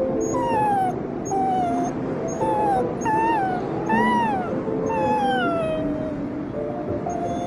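Wolf pup whimpering: a run of short, high whines, each falling in pitch, the longest about four seconds in, then the cries fade out about two seconds before the end.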